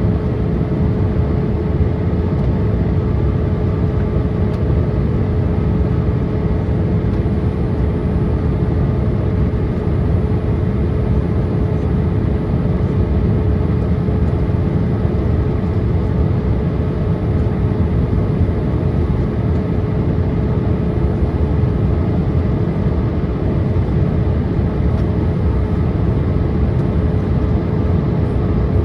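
Steady cabin noise inside a Boeing 787-8 airliner descending on approach: an even rumble of engines and airflow, with a steady hum.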